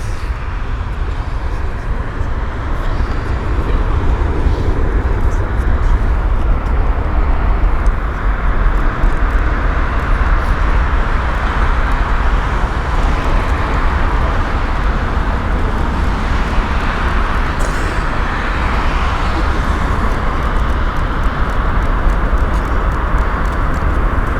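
Boeing 777F's two GE90-115B turbofan engines at take-off thrust during the take-off roll: a steady, loud rushing noise over a low rumble, growing a little louder from about four seconds in.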